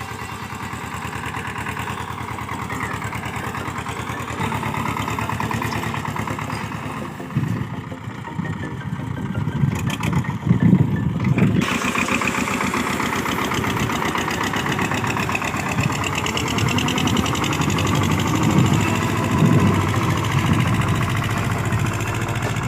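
Tractor diesel engine running steadily. Its sound dips briefly about a third of the way through, then picks up again and holds.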